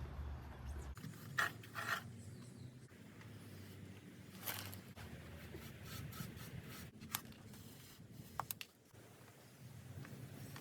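Paintbrush rubbing and scraping on a rusty steel chassis, brushing on rust converter, heard as a handful of short faint strokes a second or more apart.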